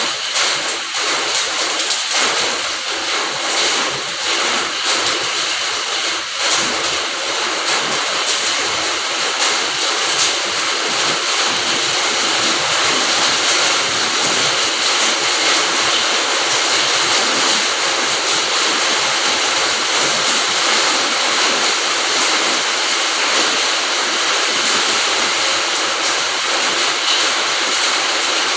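Steady rain falling in a fruit garden, an even hiss of drops with no let-up.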